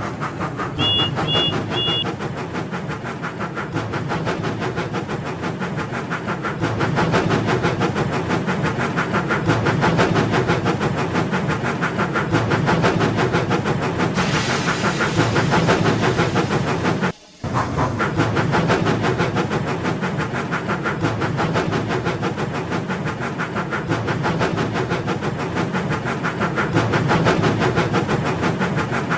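Motorized toy train engine running along toy track, pushing a train of toy wagons: a steady whirring motor with rapid clicking from the wheels. Three short high beeps sound about a second in, a brief hiss comes in about halfway, and the sound cuts out for a moment just after.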